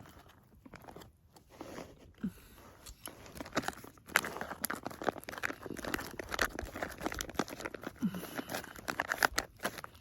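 Foil freeze-dried meal pouch crinkling and rustling as it is handled and its contents stirred, growing busier and louder about four seconds in.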